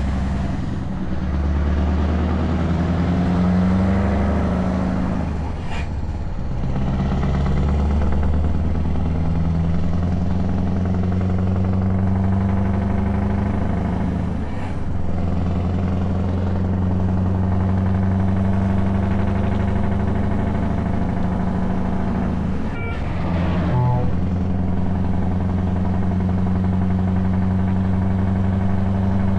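Scania S truck engine running under way through open exhaust pipes, a loud, deep, steady note. Its pitch shifts up and down in steps over the first several seconds, then holds steady. A few short clicks or knocks come through about 6, 15 and 23 seconds in.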